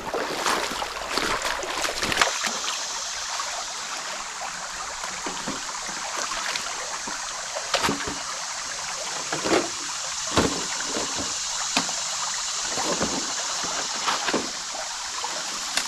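Creek water flowing steadily in a strong current, with scattered splashes and sloshes of someone wading through it.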